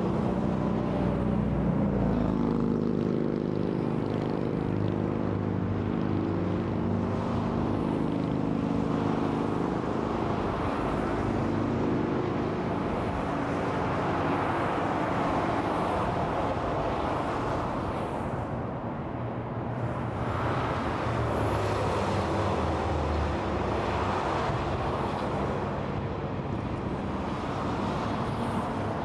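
Interstate freeway traffic: a steady wash of tyre and engine noise from passing vehicles. A low pitched engine hum stands out over it for about the first ten seconds.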